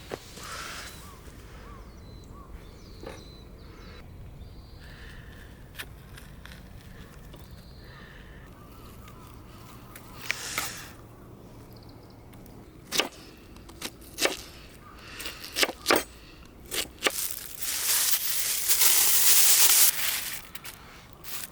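Scattered sharp clicks and knocks, thickest in the second half, then a loud rustling for about two seconds near the end, over a quiet outdoor background.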